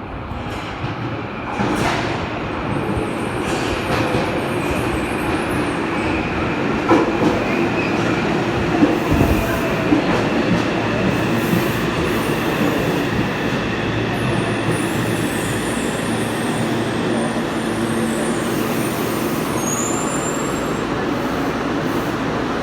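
Yokohama Municipal Subway Blue Line train running between stations: steady rumble of wheels on rail with a faint motor whine. It grows louder over the first few seconds, and a few sharp clicks from rail joints come in the middle.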